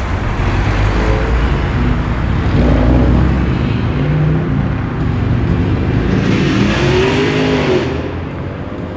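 Cars driving out past at low speed, engines and exhausts rumbling. One car's engine swells louder and rises and falls in pitch between about six and eight seconds in, then fades away.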